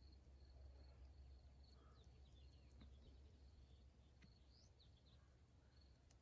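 Near silence: faint outdoor quiet with a few soft, high bird chirps, a cluster about two to three seconds in and another near the middle, over a low steady rumble.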